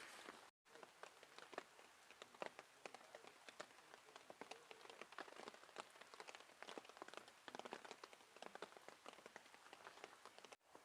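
Faint rain pattering on a tarp: individual drops tick sharply and irregularly, several a second, over a soft hiss.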